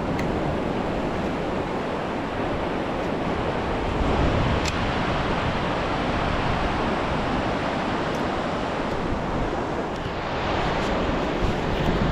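Ocean surf washing on the beach: a steady rush that swells about four seconds in and again near the end.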